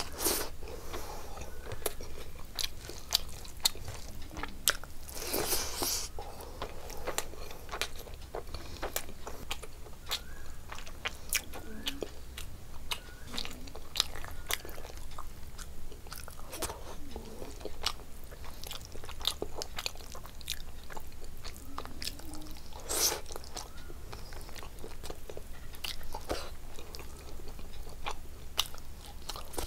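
Close-miked mouth sounds of a person eating rice and fish curry by hand: steady chewing with many wet clicks and smacks, and a few louder, longer smacks among them.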